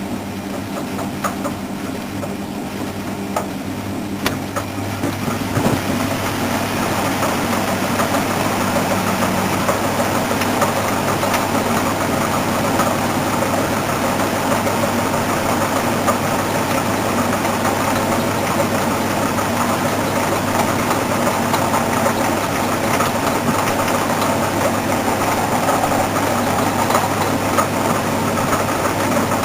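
Washing machine running with a steady mechanical hum, a few sharp clicks in the first seconds; about five seconds in the running gets louder and fuller and then holds steady.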